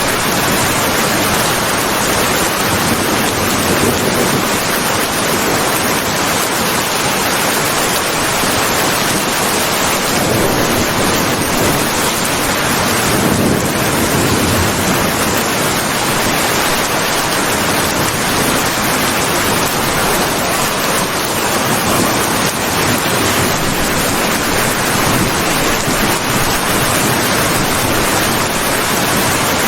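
Heavy rain falling in a steady, dense hiss, with a soft low rumble swelling about halfway through.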